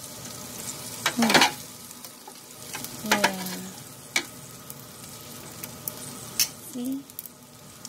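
Pork pieces sizzling in a hot air fryer basket, with metal tongs clicking and scraping against the pan a few times as the pieces are turned.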